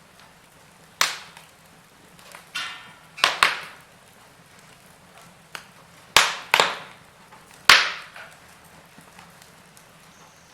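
Log fire crackling: a handful of loud, sharp pops and snaps from burning wood, some coming in close pairs, over a faint, steady hiss.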